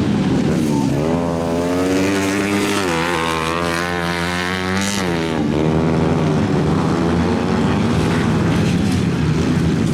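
Cat 125 cc engine running and being revved: its pitch climbs about a second in, holds, rises again and drops back about five seconds in, then it runs on at a steady speed.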